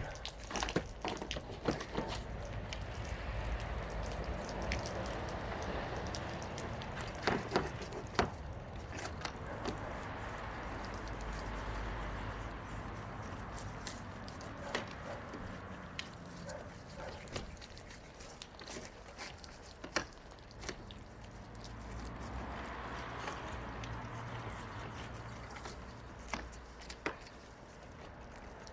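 Gutter and gutter clips being cleaned by hand: a hiss that swells and fades, with scattered clicks and knocks.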